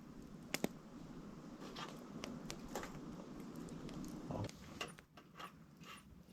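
Wood campfire in a small fire pit crackling, with irregular sharp pops, two of them loud about half a second in, over a low steady rush of burning.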